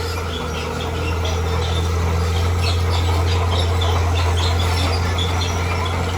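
Heavy diesel engine of a bulldozer running steadily, a low drone that grows slightly louder about a second in, with short, irregular high chirps or squeaks over it.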